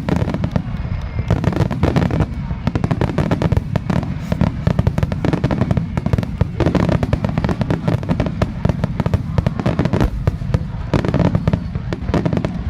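Aerial fireworks bursting in rapid succession: dense, overlapping bangs, several a second, over a continuous low rumble.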